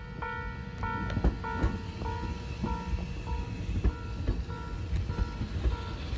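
Tobu 500 series electric train rolling slowly past, with a low rumble and irregular wheel clunks. Throughout, an electronic warning bell dings in two pitches about three times every two seconds.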